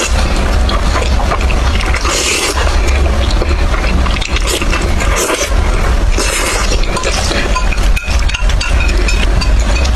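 Close-miked eating sounds: slurping and chewing sticky Buldak spicy noodles, with louder slurps about two and six seconds in, over a steady low hum.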